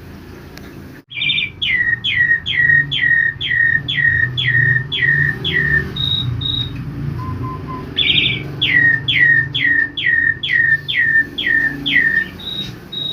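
Pied starling (jalak suren) calling: two runs of about ten quick whistles, a little over two a second, each sliding down in pitch, and each run ending with two short high notes. A steady low background noise lies underneath.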